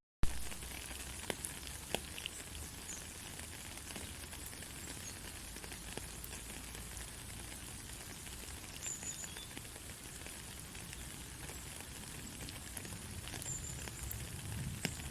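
Gentle rain falling steadily, an even hiss with scattered drop ticks. Right at the start the sound cuts out for a split second and comes back with a sharp click.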